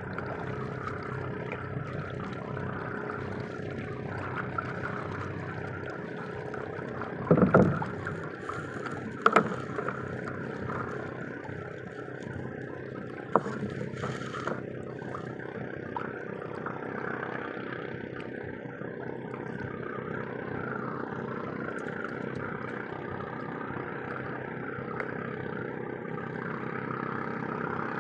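Small fishing boat on the water: a steady hum with a few sharp knocks, about seven, nine and thirteen seconds in.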